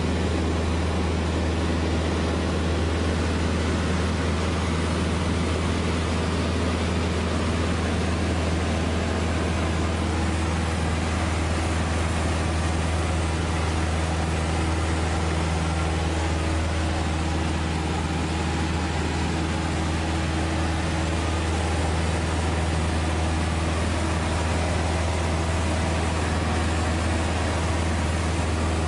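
Steady, unchanging engine drone: a strong low hum with a few steady tones above it and an even hiss.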